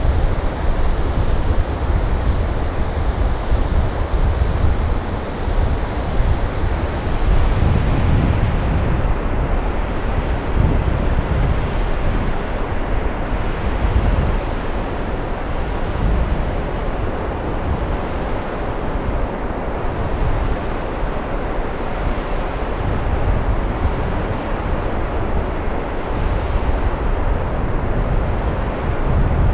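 Ocean surf washing on a beach, with wind buffeting the microphone in low, uneven gusts.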